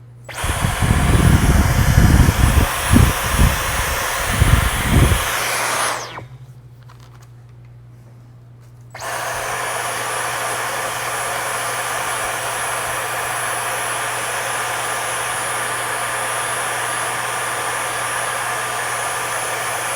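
A small electric motor tool with a high whine runs for about six seconds, with low knocking in its first few seconds, then winds down. About three seconds later it starts again and runs steadily.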